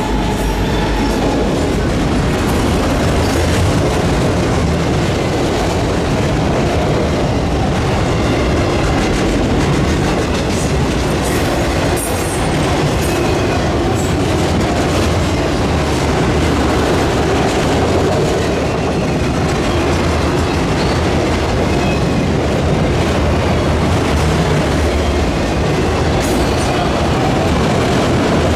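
Freight train rolling past at close range: a steady, loud rumble of steel wheels on rail with clickety-clack from the cars over the track joints.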